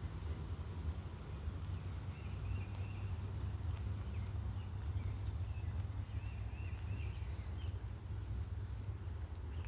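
Songbirds singing in short, repeated warbling phrases over a steady low rumble of outdoor ambience.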